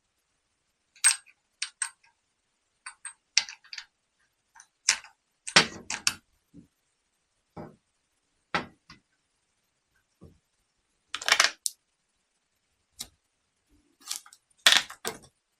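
Small metal parts of a starter motor solenoid clicking and clinking as they are handled, while a brass contact stud is pushed through its housing. The sounds are scattered short clicks with a few brief clatters.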